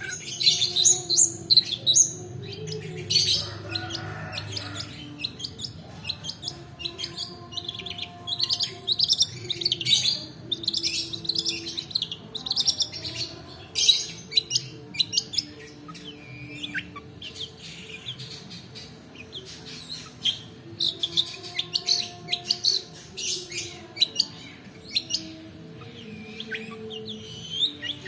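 Long-tailed shrike (cendet) singing a lure song: a continuous run of rapid, high chirps and trills in quick bursts.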